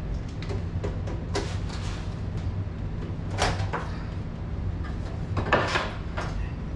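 A few short clicks and knocks of a steam humidifier's cover or panel being handled, over a steady low hum.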